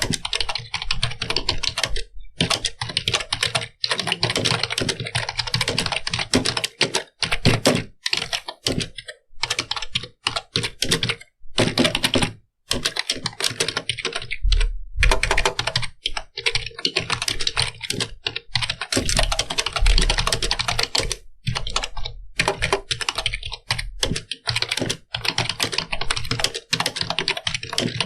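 Computer keyboard being typed on continuously: rapid key clicks in quick runs, broken by a few brief pauses.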